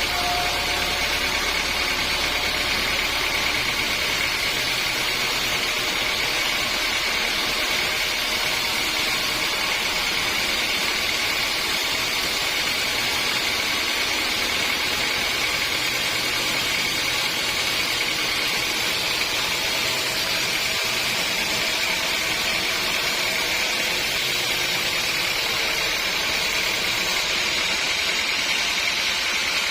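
Sawmill machinery running steadily, a constant mechanical noise with a high, even whine that holds without a break.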